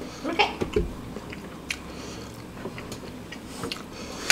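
Close-miked chewing of instant noodles, with soft wet mouth sounds and scattered small clicks.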